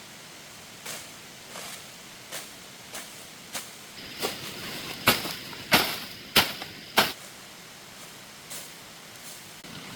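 A series of sharp knocks, roughly one every two-thirds of a second, getting louder toward the middle with four loud strikes and then a few faint ones near the end, over a steady hiss.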